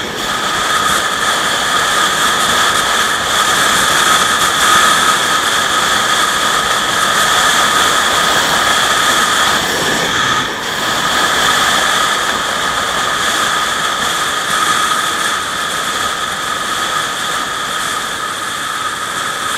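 Steady running noise of a moving road vehicle: an even rush of road and engine noise with a constant high whine over it, dipping briefly about halfway through.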